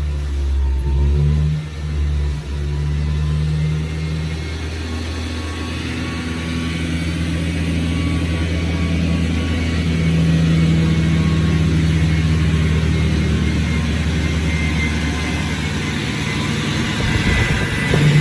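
Car engine running steadily, with two brief dips in level about two seconds in and a gradual rise in loudness through the middle.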